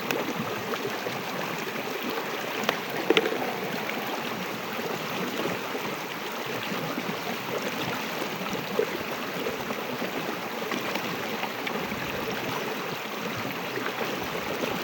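Steady rushing background noise, like running water, with a few faint clicks about three seconds in.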